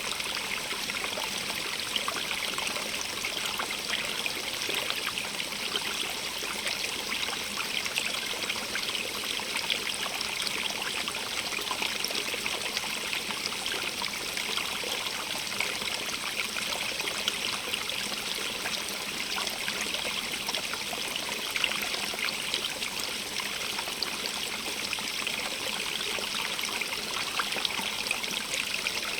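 A stream running and trickling over rocks: a steady, even rush of water with fine splashing and bubbling throughout.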